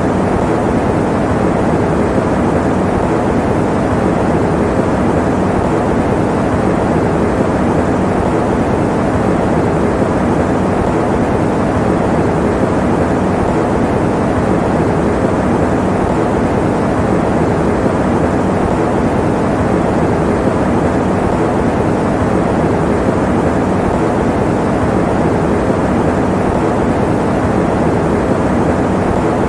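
Electric fan running steadily: an even, low whooshing hum that does not change.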